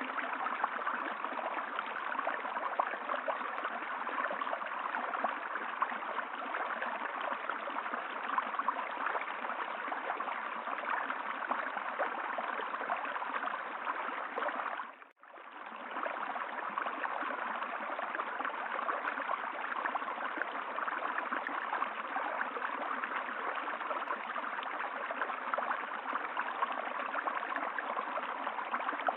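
Steady rushing of running water, like a stream, with no other sound. About halfway through it fades out for a moment and comes straight back.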